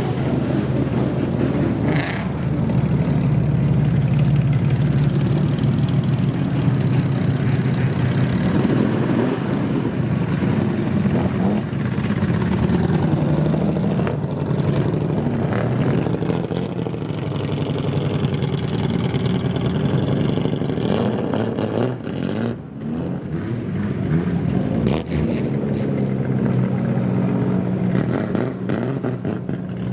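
Old Japanese car with a kaido-racer custom exhaust, its engine running loud and mostly steady, with a few short changes in revs in the second half.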